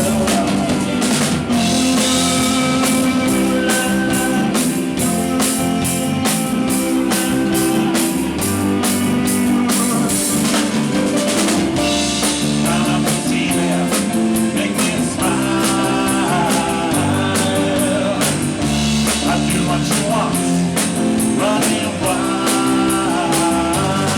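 Live rock band playing a passage without vocals: a drum kit keeping a steady, fast beat on the cymbals, with guitar lines over it.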